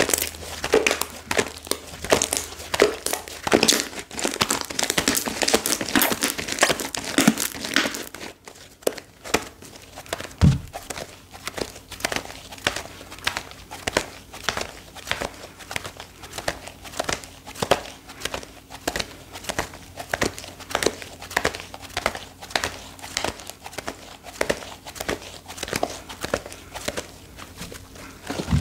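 Slime being squeezed and worked by hand, giving a continuous run of sharp crackling clicks and pops, busier and louder for the first several seconds, then a steadier stream of smaller clicks.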